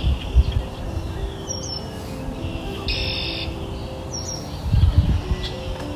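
Songbirds chirping in short repeated phrases every couple of seconds, over faint sustained low tones. A few low dull thuds come through, the strongest about five seconds in.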